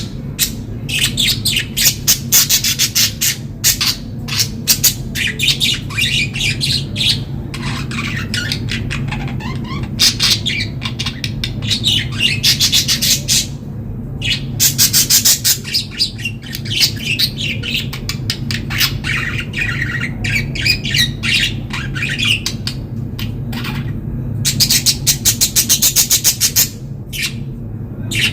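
Budgerigars chirping and chattering: quick high chirps, warbles and fast rattling trills in close succession, over a steady low hum.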